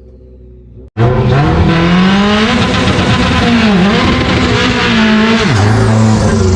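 Turbocharged Subaru STI 2.5-litre flat-four engine pulling hard under full throttle. After a sudden cut about a second in, the engine note climbs steadily and dips briefly near the middle, then drops sharply near the end, like a gear change.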